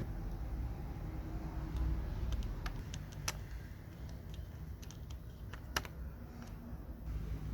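Scattered light clicks and taps, a dozen or so at uneven intervals, the sharpest about three and six seconds in, over a steady low rumble.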